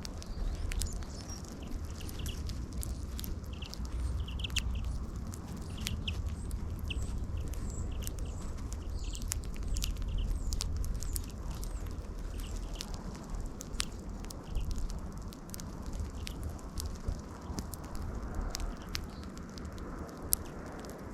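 Small birds feeding on scattered seed close to the microphone: short chirps, thickest in the first half, and scattered sharp pecking clicks over a low, steady rumble.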